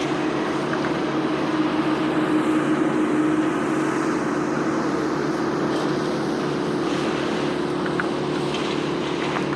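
An engine of the tree-removal machinery running at a steady speed, a constant drone with a held hum.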